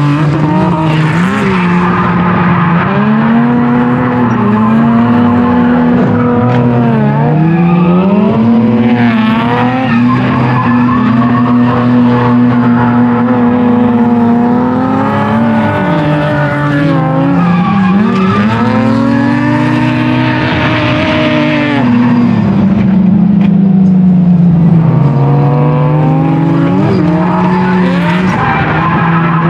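Mazda RX-7 FC's naturally aspirated 13B rotary engine revving up and down repeatedly under load while drifting, with tires squealing at times.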